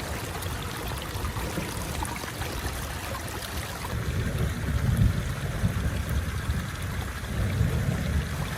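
Steady rain noise with an uneven low rumble that swells about four to six seconds in and again near the end.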